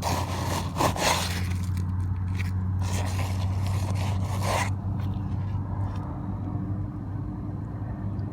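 Fluffed-out steel wool being shoved and packed up into a hole, in several scratchy, rustling bursts through the first five seconds or so, quieter after that.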